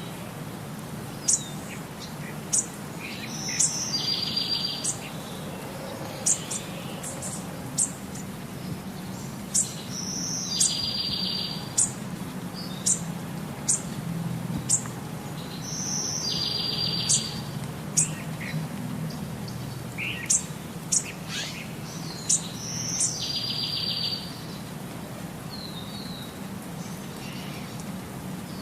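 Small songbirds chirping and singing: a short buzzy trill recurs about every six seconds, with sharp high chirps scattered between.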